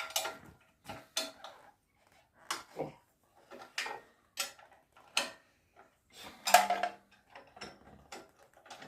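Irregular metallic clinks and clatters of small metal parts, such as nuts and bolts, being handled and dropped into a tin, with the loudest clatter about six and a half seconds in.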